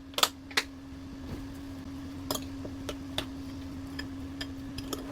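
Light clicks and taps of kitchen utensils, two sharper ones in the first second and a scatter of fainter ticks later, over a steady low hum.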